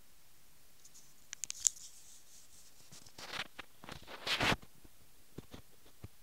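Handling noise close to the microphone: a few sharp clicks, then two brief scraping rustles and a few more small clicks.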